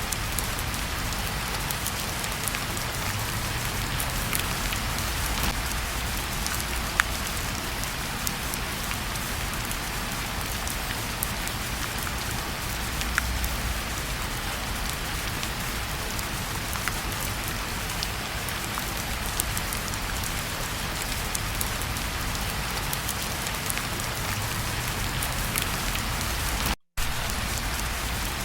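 Steady rain falling, with occasional sharp pops and crackles from a fireplace fire and a low rumble underneath. The sound cuts out for a split second near the end.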